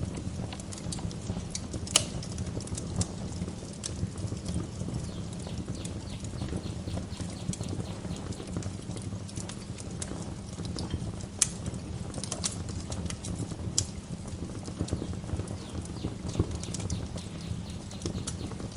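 Wood fire crackling in a fireplace: a steady low rumble with scattered sharp pops and snaps, a loud one about two seconds in.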